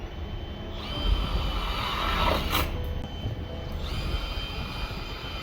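Power drill running in two bursts of about two seconds each, a steady high whine that starts about a second in and again near the end, while the stove flue is being fitted.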